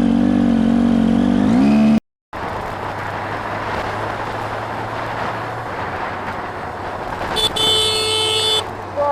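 Motorcycle engine running with a steady hum, cut off abruptly about two seconds in; then wind and road rush over a low engine hum while riding, and a vehicle horn sounds for about a second near the end.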